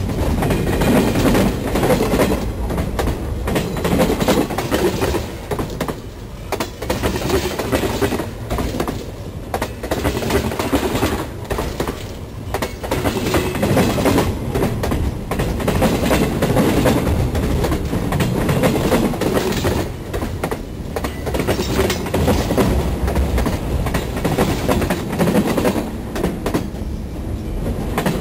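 A train's railcars rolling directly over the microphone between the rails: a continuous heavy rumble of wheels on track, broken by repeated clacks as the wheels pass, rising and falling in loudness as each car goes by.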